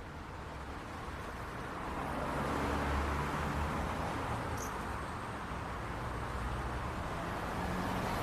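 City street traffic: a steady wash of car and tyre noise with low engine rumble, swelling as a vehicle passes about two to three seconds in.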